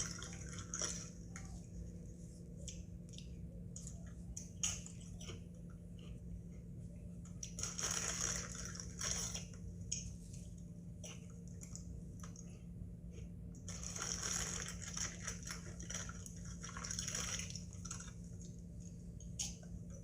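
Doritos tortilla chips being crunched and chewed close to the microphone, in three bouts of crackling with quieter chewing between, over a steady low electrical hum.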